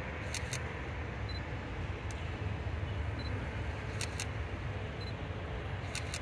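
Freight train rolling past at low speed, its wheelsets clacking over a rail joint in pairs about every two seconds, over a steady low rumble.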